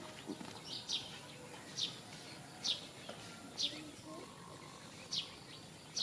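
A bird repeating one short, sharp, high chirp that falls in pitch, about once a second, over faint background noise.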